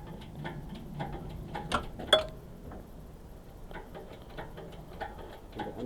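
Scattered light metallic clicks and clinks of metal parts being handled, with one sharper ringing clink about two seconds in.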